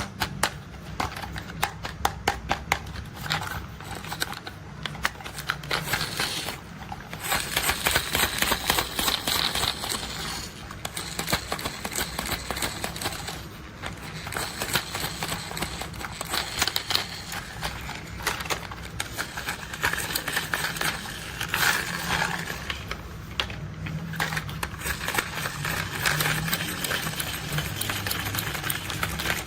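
Plastic toy construction vehicles being handled, with rapid irregular clicking and clattering of plastic parts and a low hum underneath.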